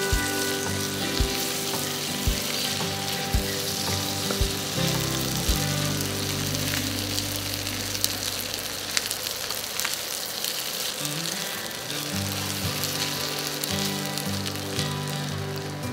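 Mutton pieces with onions and curry leaves sizzling on high heat in a nonstick pan as they are stirred with a silicone spatula. Background music plays underneath.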